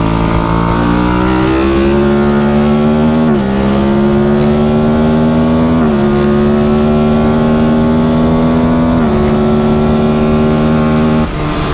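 Motorcycle engine pulling hard through the gears: its pitch climbs slowly under load, then drops at each of three upshifts, about every two and a half to three seconds. Near the end the engine note breaks off as the throttle is closed.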